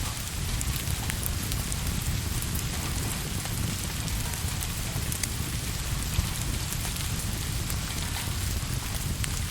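Steady rain with a low rumble underneath, and scattered small crackles of a wood fire through it; one sharper pop about six seconds in.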